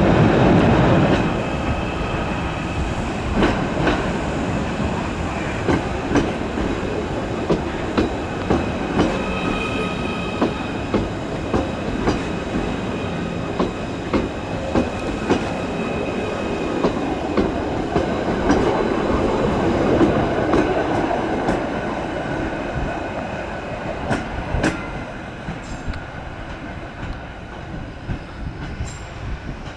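Merseyrail Class 777 electric multiple unit rolling slowly along the platform. Its wheels click regularly over the rail joints, about one click every three quarters of a second, over a faint steady whine. The sound grows quieter towards the end.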